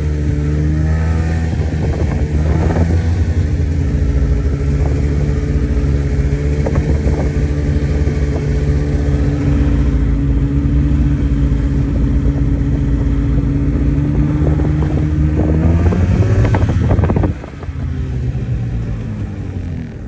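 A vehicle engine running at a steady speed, its note shifting a little; near the end it rises briefly, then the sound drops off suddenly and carries on quieter.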